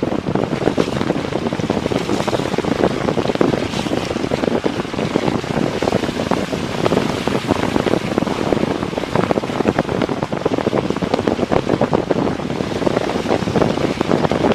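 Heavy fall of cherry-size hail: a dense, unbroken clatter of hailstones striking, over a steady rushing noise.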